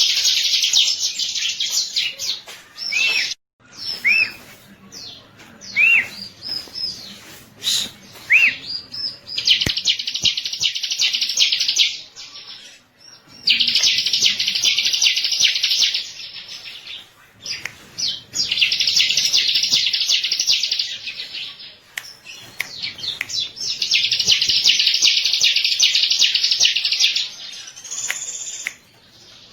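Bar-winged prinia (ciblek) singing: long, very fast, high-pitched trills of two to three seconds each, repeated five times. Between the trills in the first part come short, single arched chirps.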